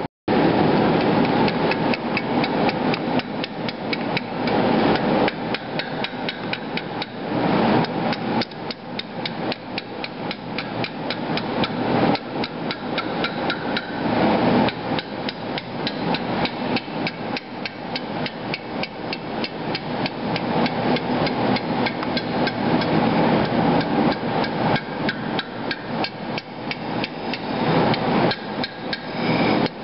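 Blacksmith's hammer striking the steel socket handle of a forged machete in a rapid, steady series of blows, several a second: hammering the end of the handle over into a rolled rim.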